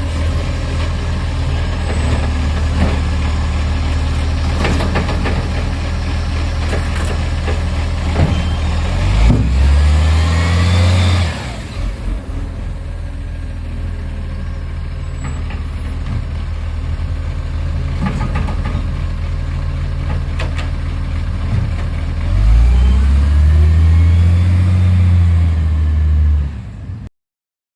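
Garbage truck's diesel engine running steadily, revving up twice, about nine seconds in and again about twenty-two seconds in, before the sound cuts off near the end. The truck has an exhaust leak.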